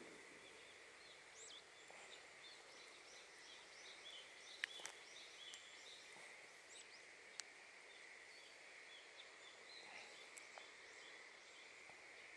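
Faint pond-side ambience: small birds chirping in quick short calls for the first half, over a steady high thin drone. A few light clicks come from the fishing tackle being handled.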